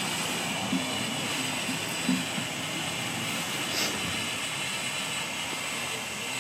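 Steam locomotive hissing steam in a steady, even hiss, with a couple of faint knocks in the first few seconds.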